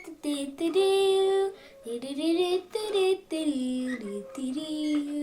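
A child's voice singing a tune alone, holding notes and sliding between them, with short breaks between phrases.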